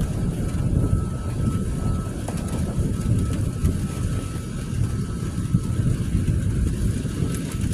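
Storm wind buffeting the microphone: a steady low rumble that swells and eases slightly.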